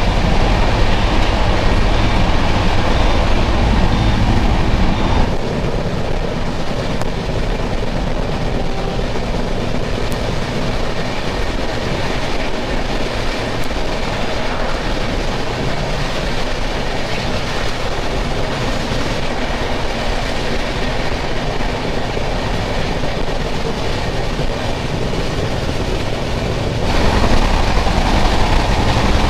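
Express passenger train running at speed, heard from aboard: a continuous rush of wheel and rail noise with some clickety-clack. The noise drops to a slightly quieter, thinner sound about five seconds in and grows louder again near the end.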